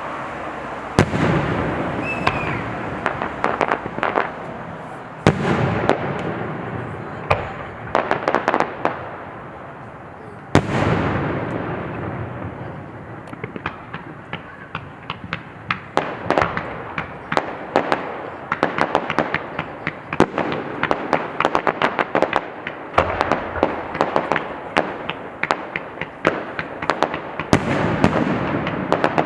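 Aerial fireworks display: shells burst with deep booms four times, each followed by a rumbling echo and rapid crackling, with long stretches of dense crackle through the second half.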